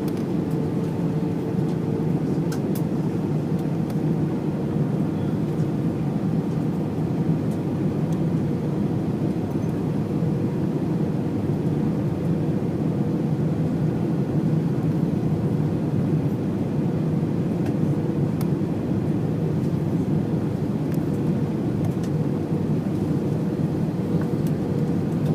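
Steady rumble of an airliner's engines and air system heard from inside the passenger cabin as the plane taxis after landing, with a faint steady hum above it.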